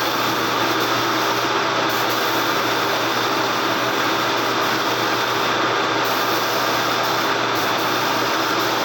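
A machine running steadily: a constant hiss with a low, even hum underneath, unchanging throughout.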